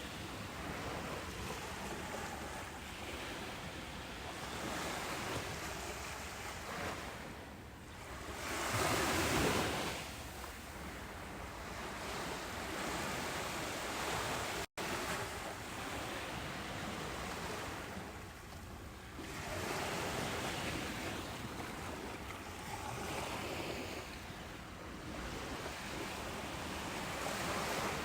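Ocean surf breaking and washing on a beach: a steady hiss that swells and ebbs with each wave, loudest about a third of the way in. A split-second dropout in the sound about halfway through.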